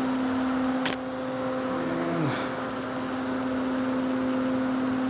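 Steady low electrical-sounding hum over room hiss, with a single sharp click about a second in.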